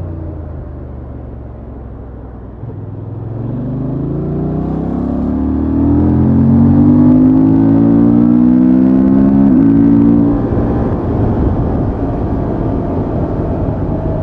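Honda XL750 Transalp's 755 cc parallel-twin engine through its stock exhaust, accelerating hard with a rising pitch from about three seconds in. It is held at its loudest for a few seconds, then the throttle eases off near ten seconds. Afterwards a lower engine note and a steady rush of wind and road noise remain.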